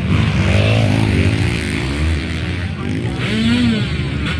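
Motocross motorcycle engines revving as bikes race, their pitch climbing and dropping, over a heavy low rumble. One engine rises and falls in pitch clearly about three and a half seconds in.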